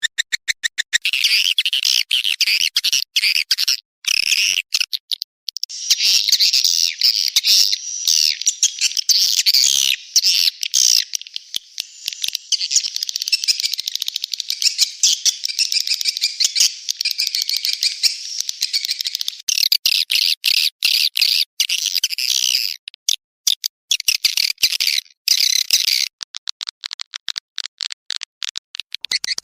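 Recorded edible-nest swiftlet calls played as a swiftlet-house lure sound: dense high twittering chirps, with rapid trains of clicks at the start and again near the end.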